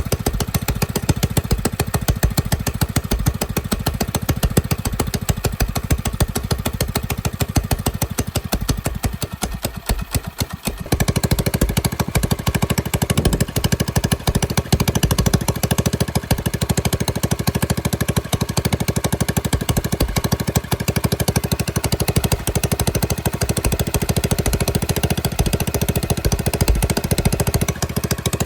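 Minibike's small pull-start engine running with rapid firing pulses while its carburettor idle and mixture screws are being adjusted. The engine sags and goes quieter about nine seconds in, then picks up at about eleven seconds and runs louder and more evenly.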